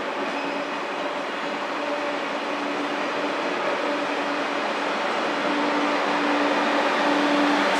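TGV Atlantique trainset rolling slowly through a station: steady rumble of wheels and running gear with a steady low hum, slowly growing louder.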